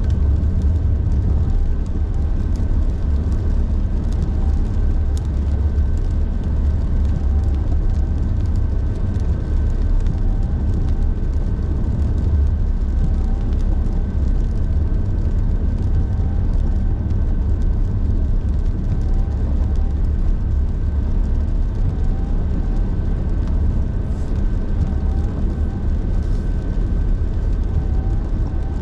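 Car driving along: a steady low rumble of engine and tyre noise that holds even throughout, with a faint steady high tone above it.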